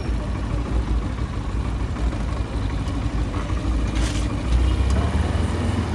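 Motorcycle engine running steadily while riding through city street traffic, a low rumble under the traffic noise, with a brief hiss about four seconds in.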